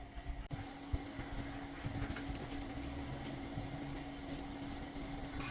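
Steady mechanical hum holding one constant low tone, with a low rumble and a few faint knocks.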